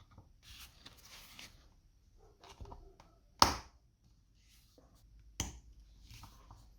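Small hard objects being handled by hand on a work surface: scattered light taps and clicks, a brief rustle about a second in, and two sharp knocks about three and a half and five and a half seconds in, the first the louder.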